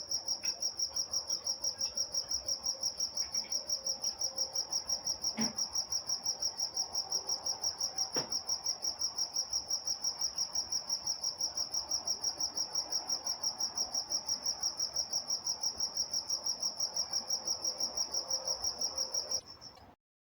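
Crickets chirping at night in a fast, even, unbroken rhythm of high-pitched pulses. There are two faint knocks about a third of the way in, and the sound cuts off suddenly just before the end.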